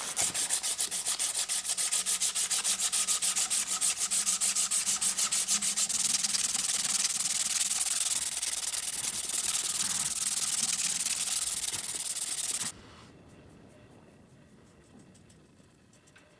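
Hand sanding with fast, even back-and-forth strokes, then continuous rubbing that stops suddenly about thirteen seconds in.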